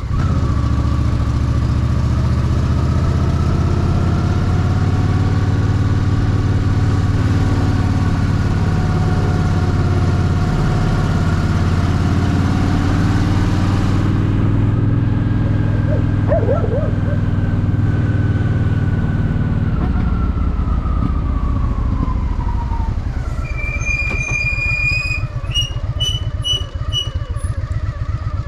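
Honda Shadow VT750's V-twin engine running at riding speed with wind rush, then slowing: the wind noise drops off about halfway, the engine note falls, and it settles into a lumpy idle for the last several seconds. A few brief high-pitched tones sound near the end.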